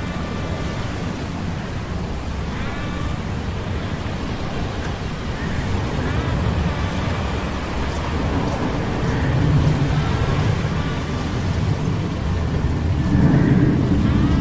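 Sea-storm sound effects of steady rain and rolling thunder layered over the low hum of metal gears. The rumble swells about nine seconds in and again near the end, and faint high whines glide up and down now and then.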